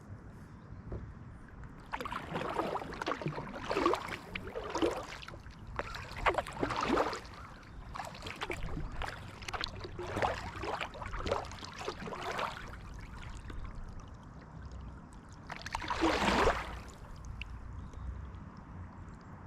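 Kayak paddle strokes, the blade splashing and pulling through the water about once a second, then a pause and one more stroke near the end.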